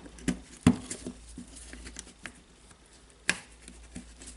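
Small plastic parts clicking and knocking by hand as a carbon brush holder unit is fitted into an angle grinder's housing: a scatter of light clicks, with two sharper knocks, one under a second in and one just past three seconds.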